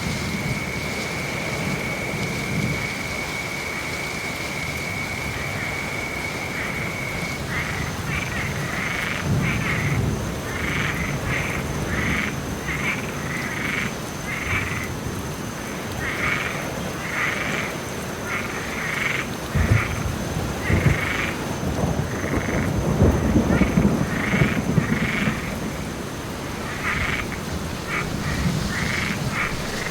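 Thunderstorm ambience: steady rain with low thunder rumbling, loudest about two-thirds of the way through, and frogs calling. The frogs give a steady trill for the first seven seconds or so, then a run of short calls about once a second.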